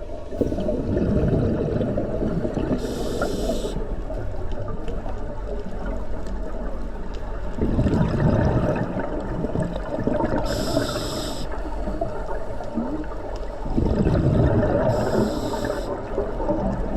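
Scuba diver breathing through a regulator underwater: three long bubbling exhalations, each followed by a short hiss of the regulator on the inhale.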